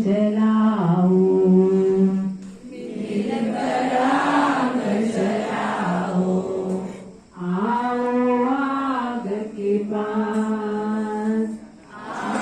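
A group of young voices singing a song in unison, in long held phrases broken by brief breath pauses about two and a half seconds in, around seven seconds in, and near the end.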